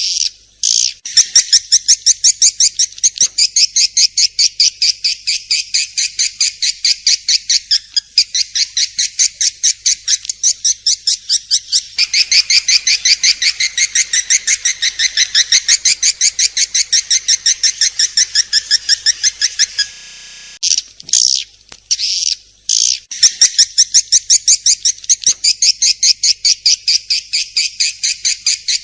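Swiftlet (walet) calls: long, loud trains of rapid high chirps, several a second, broken by short pauses about a second in and again about two-thirds of the way through.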